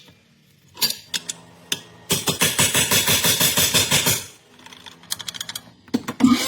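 Rapid mechanical clicking of hand-tool work: a few scattered clicks, then a fast run of clicks lasting about two seconds, then a few more near the end.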